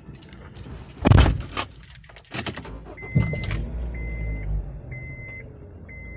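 A few loud clunks and rustling handling noises, then an electronic beep sounding about once a second, each beep about half a second long, over a low rumble.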